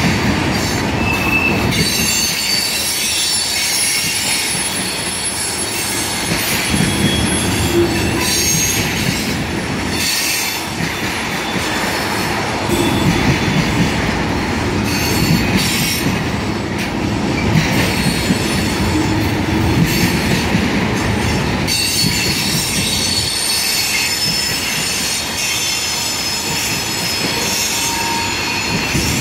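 Freight train of tank cars rolling steadily past: a constant rumble and clatter of wheels on the rails, with high wheel squeal coming and going, strongest in the first third and again in the last third.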